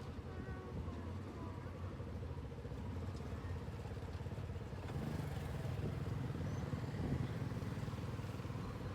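Motorcycle engine running steadily as the bike is ridden, getting a little louder about five seconds in.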